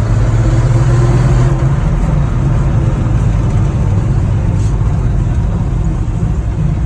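Old Ford F-Series pickup's engine running under way, a steady low drone that is a little stronger in the first second and a half.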